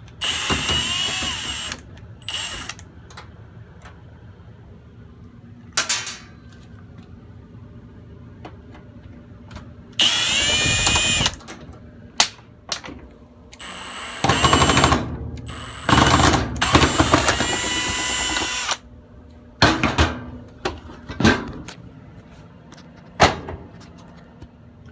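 Cordless drill-driver backing screws out of a washing machine's panel, running in four bursts of one to three seconds each, its motor whine rising as it spins up. Sharp clicks and knocks come between the bursts.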